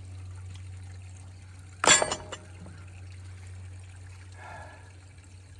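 One sharp metal clank about two seconds in, a wrench or other hand tool striking steel, ringing briefly, over a steady low hum.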